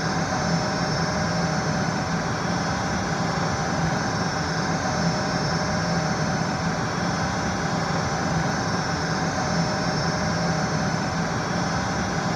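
A motor-driven fan running with a steady, even hum and whir.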